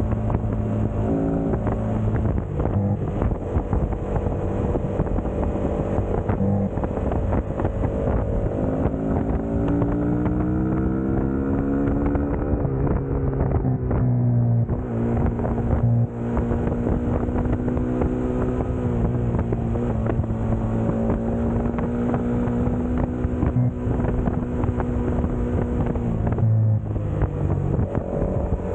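Suzuki GSX-S150 single-cylinder four-stroke engine pulling under way. Its revs climb for a few seconds, fall off sharply about twelve seconds in, then hold steady, with a brief drop near the end. Wind rushes over the microphone throughout.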